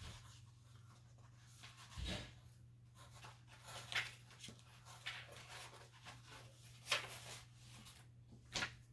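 Paper and craft supplies being handled and shuffled: scattered soft rustles and light knocks over a steady low hum.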